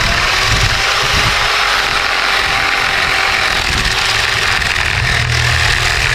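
Electric power sander running steadily against the skid steer's metal bodywork, a loud even hiss with a steady motor whine.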